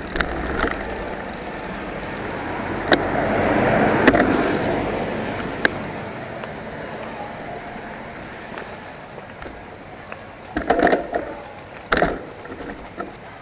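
A vehicle passing on the road: a swell of engine and tyre noise that peaks about four seconds in and slowly fades, followed by a few sharp knocks near the end.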